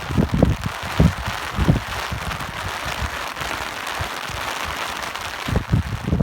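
Steady rain hissing, with irregular low buffeting from wind gusts in the first two seconds and again near the end.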